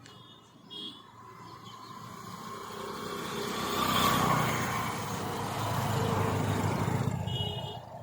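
A vehicle passing by: it grows louder to a peak about four seconds in, stays loud, then drops away near the end.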